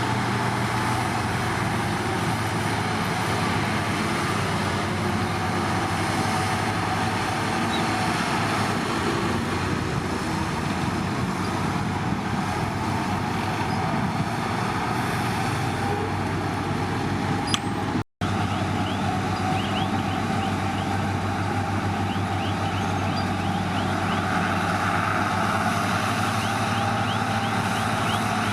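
Heavy construction machinery's diesel engine running steadily under work. The sound drops out for an instant about two-thirds of the way through.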